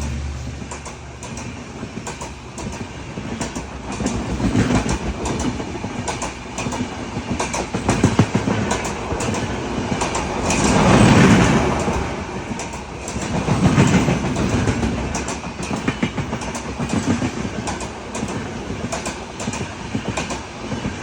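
Indian Railways train running on the track, its wheels clicking over the rail joints in a steady clickety-clack, with the rumble swelling and fading several times, loudest about halfway through.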